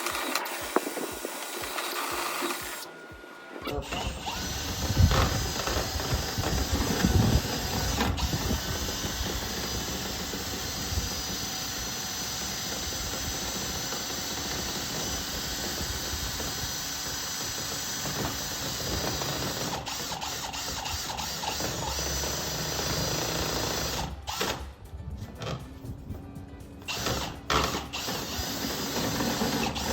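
Power drill driving a rotary duct-cleaning rod, a steady whirring rattle for about twenty seconds, then stopping and starting in short runs near the end.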